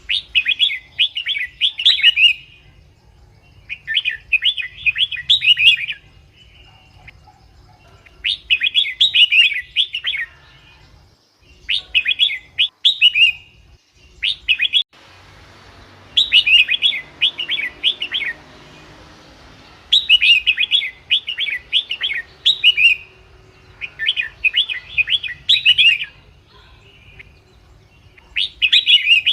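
Red-whiskered bulbul singing: short, bright phrases of quick warbled notes, repeated every few seconds with brief pauses between them. A faint hiss rises under the song about halfway through and fades a few seconds later.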